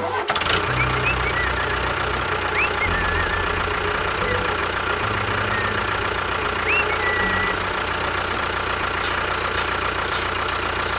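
Engine of a mini tractor-bulldozer running steadily, its low drone shifting slightly in pitch now and then. A few short chirps sound over it in the first several seconds.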